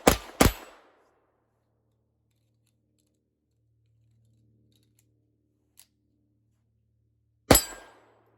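Ruger .22 LR semi-automatic target pistol firing: two quick shots about half a second apart right at the start, then a long silent gap, then a single shot near the end.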